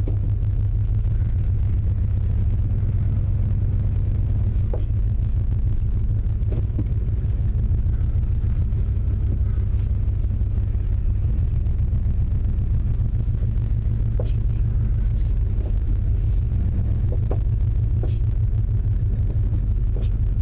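1995 Chevy Tahoe's V8 engine running at low speed while the truck backs slowly, a steady low rumble; the engine has a spun main bearing on the crankshaft.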